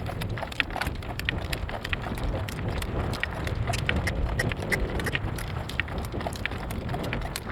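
Horse trotting in harness, hooves clip-clopping in a steady even rhythm, under a heavy rumble of wind on the microphone.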